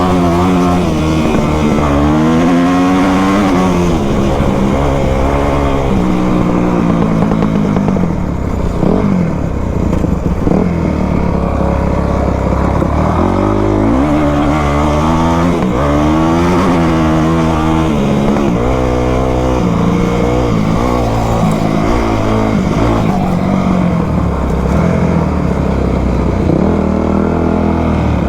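Two-stroke dirt bike engine (Yamaha YZ250) being ridden off-road, revving up and down over and over as the throttle is worked.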